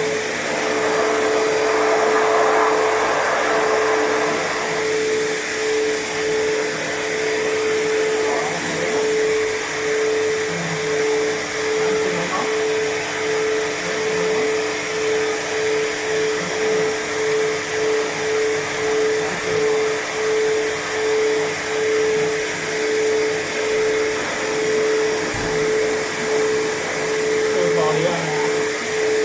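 Pet hair dryer blowing as a cat's fur is dried: a steady rush of air with a hum that pulses regularly, a little faster than once a second.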